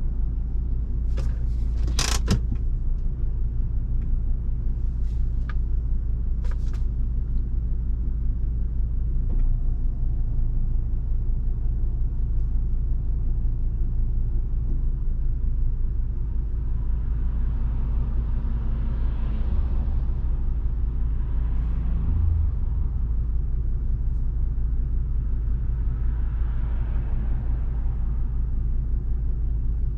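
Volvo V70 2.5T's five-cylinder turbo engine and road noise heard from inside the cabin while driving: a steady low rumble. A few sharp clicks sound in the first seven seconds, and two broad swells of hissing noise rise and fade in the second half.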